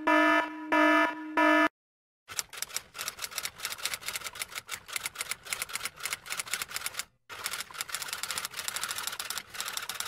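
An electronic alarm beeps three times in quick succession, then a typewriter's keys clatter rapidly for the rest, with a short pause about seven seconds in.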